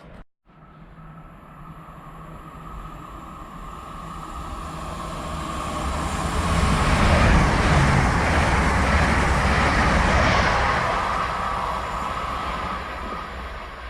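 A GWR passenger train passes through the station: a rumble and a rushing noise with a steady whine that swell to their loudest about halfway through, then fade away.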